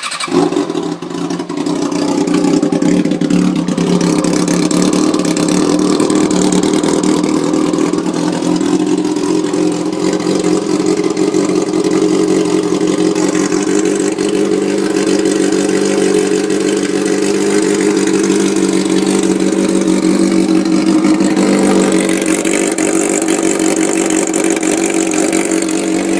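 A 2006 Kawasaki Ninja ZX-6R's inline-four engine running steadily at idle just after a cold start, with no exhaust fitted, so it runs loud and raw through the open headers. Its note shifts slightly after about twenty seconds.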